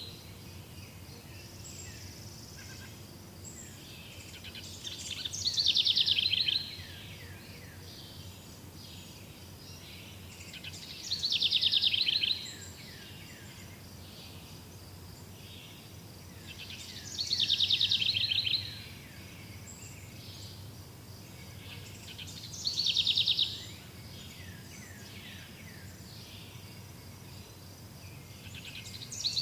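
A bird repeating the same short song about every six seconds, each phrase a fast trill that falls in pitch and lasts about a second and a half. Underneath runs a steady quieter background of outdoor ambience with a faint high insect-like drone.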